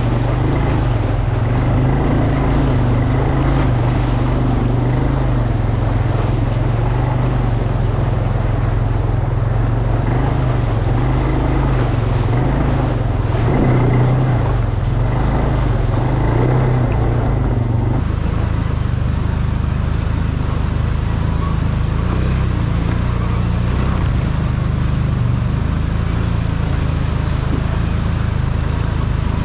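ATV engine running steadily under way. About two-thirds of the way through the sound changes abruptly to a different, duller engine note.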